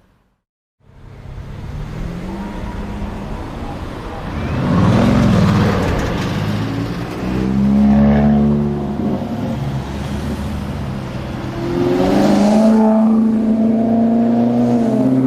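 Lexus LFA Nürburgring Edition's V10 engine, starting about a second in and revving up several times, its pitch climbing as the car accelerates.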